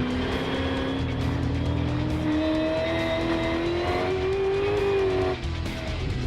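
V8 Supercar engine accelerating hard, its note rising steadily for about five seconds, then breaking off and dropping at a gear change near the end. Music plays underneath.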